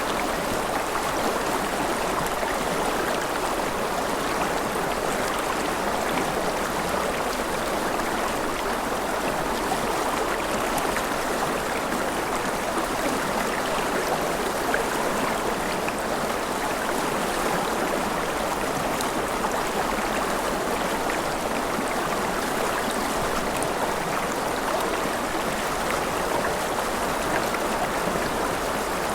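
A forest river flowing over rocks, a steady rushing and babbling of water with no breaks.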